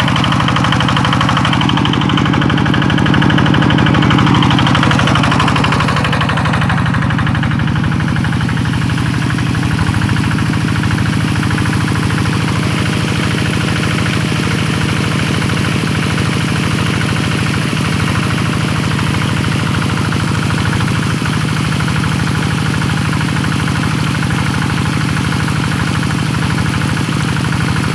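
Kubota 12 hp single-cylinder diesel engine running steadily, driving a 5-inch suction water pump.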